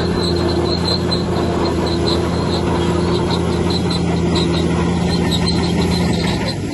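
Heavy diesel earthmoving machinery running steadily under load, with a rhythmic high squeak about three times a second over the engine; near the end the engine note drops and shifts.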